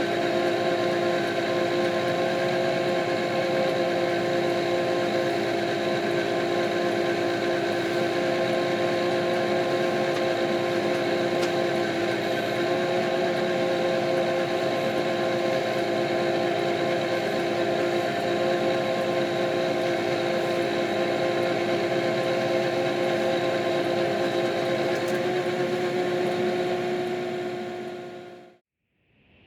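Kioti RX7320 tractor's diesel engine running steadily under load, with a steady whine over it; it fades out near the end.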